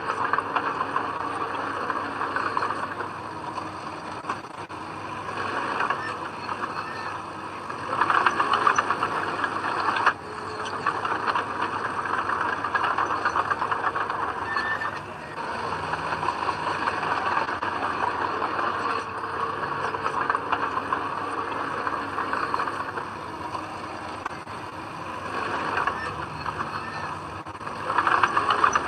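Komatsu D20P bulldozer running and clattering on its tracks as it pushes soil, the engine surging louder twice, about eight seconds in and near the end.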